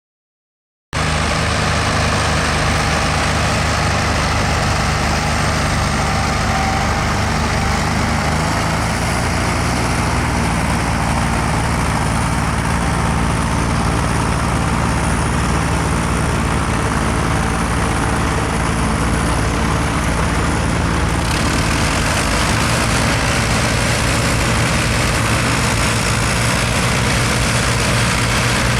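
Diesel tractor engine running steadily at a ploughing event, with its note shifting slightly a couple of times.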